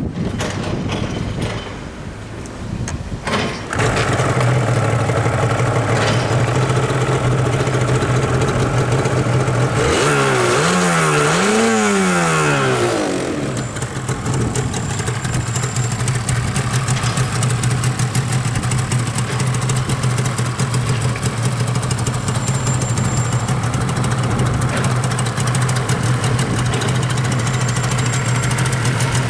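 Yamaha R1-Z's two-stroke parallel-twin engine with its stock exhaust, catching about four seconds in after a few knocks and settling into a steady idle. About ten seconds in, the throttle is blipped twice, the pitch rising and falling each time, before the engine drops back to idle.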